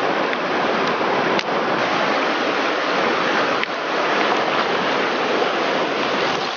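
Steady rush of flowing water, with a couple of faint ticks.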